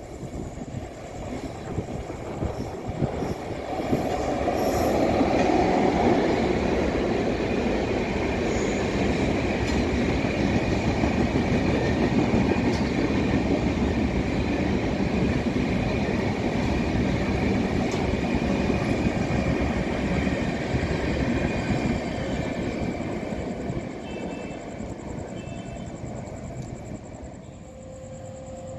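Superfast passenger train running through a station at speed without stopping, a steady rumble and rattle of wheels on the rails. It builds about four seconds in, holds loud, and fades near the end as the train goes by.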